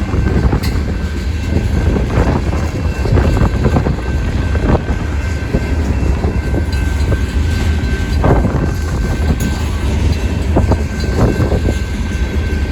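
Freight cars of a CSX manifest train rolling past: a steady low rumble with irregular clanks and knocks from wheels and couplers.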